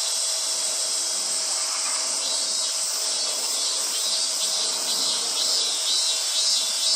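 A summer chorus of cicadas, a steady high-pitched sizzling drone with a faint pulsing in it.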